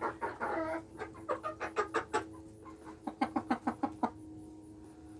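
Polish chickens clucking: a series of short clucks, then a quick run of rapid clucks about three seconds in, over a faint steady hum.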